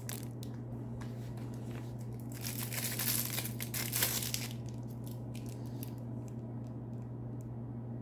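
Packaging crinkling and rustling as it is handled, loudest for about two seconds in the middle, with scattered light handling clicks around it, over a steady low hum.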